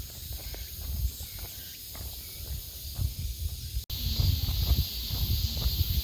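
Footsteps of a person walking, with a steady high buzzing chorus of cicadas and other insects behind them. After a brief dropout near the middle, the insect buzz is louder.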